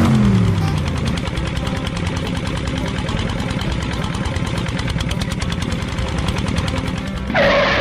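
A small engine running steadily with a fast, even chugging. A brief louder burst comes near the end.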